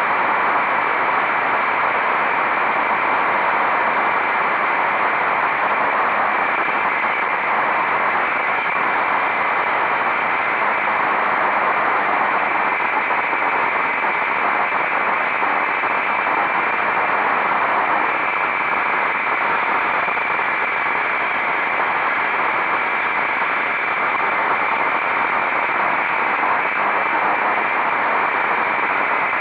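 Steady rushing wind and road noise from a motorcycle on the move, with no distinct engine note standing out.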